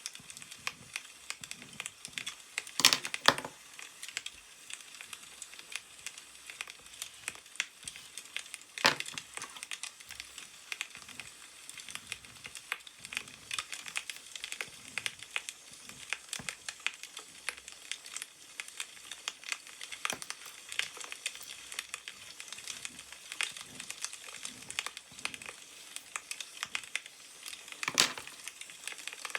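Wood fire crackling with many small pops. Newspaper rustles louder three times: about three seconds in, about nine seconds in and near the end.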